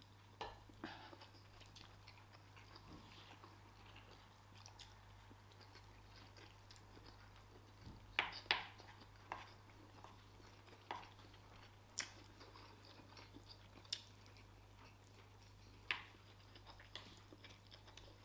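Faint chewing as rice and stew are eaten, with about ten short sharp clicks spread through, over a low steady hum.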